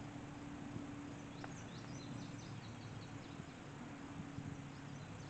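A small bird chirping a quick series of short, high notes, over a steady low hum.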